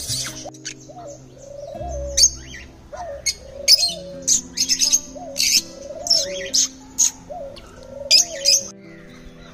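A flock of birds chirping, with many sharp, high calls coming irregularly and a lower, curving call repeated about once a second.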